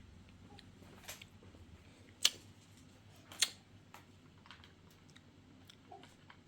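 Scattered sharp clicks and light taps over a faint steady hum, with two louder clicks about two and three and a half seconds in.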